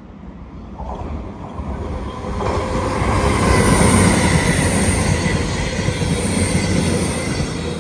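A train passing close by, its rumble building over the first few seconds and then holding, with a thin high squeal from the wheels on the rails above it.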